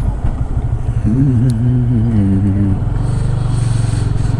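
Motorcycle engine running steadily with a low pulsing note. A wavering pitched tone rides over it for about two seconds in the middle.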